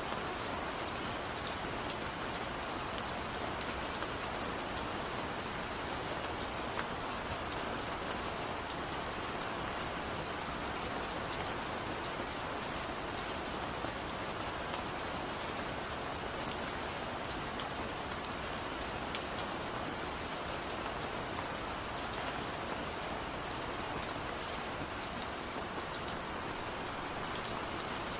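Steady rain falling on surfaces, an even hiss with scattered sharp drop ticks.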